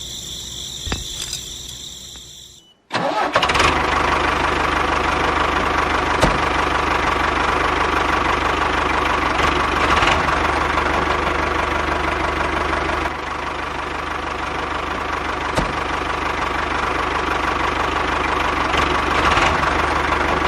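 A quieter high-pitched whine, then after a brief cut an engine running steadily and loudly from about three seconds in.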